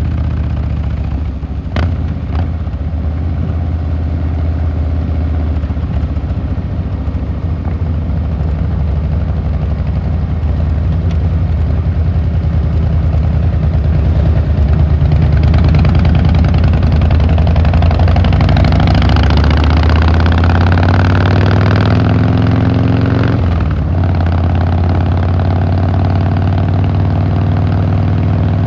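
Harley-Davidson Fat Boy Lo V-twin engine and exhaust running steadily under way; from about halfway the revs climb, then drop suddenly near the end before settling again.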